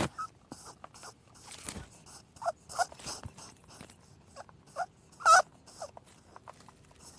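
Rabbit squeaking: a handful of short, high squeaks among scattered small clicks. The loudest squeak comes about five seconds in.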